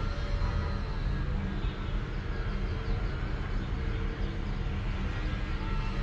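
A sleeping cat purring, a steady low rumble.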